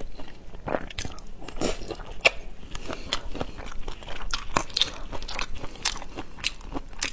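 Close-miked eating of shell-on shrimp in spicy sauce: biting and chewing with many sharp, irregular crunchy clicks and wet mouth sounds.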